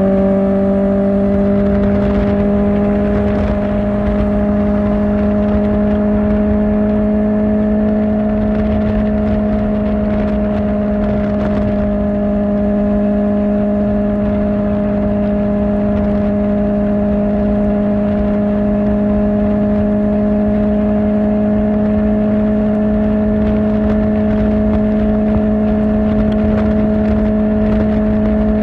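Kawasaki Ninja ZX-4R's inline-four engine, breathing through an Akrapovic exhaust, running at a steady cruising pace. Its pitch creeps up slightly in the first few seconds and then holds, over a low rush of noise.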